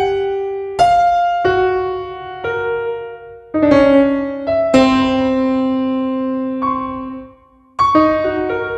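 Solo piano playing a slow, self-composed piece: single notes and chords struck and left to ring out, a long held low chord in the middle, and a short pause near the end before the playing picks up again.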